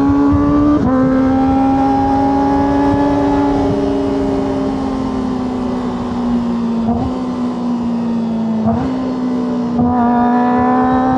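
Kawasaki ZX-25R's inline-four engine through a Yoshimura exhaust, running at a steady high pitch while being ridden. The pitch drifts slowly, with brief breaks and steps about a second in and again around 7, 9 and 10 seconds.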